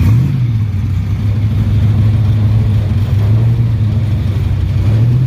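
Hot rod's engine idling loudly and steadily, with a brief small rise in revs right at the start.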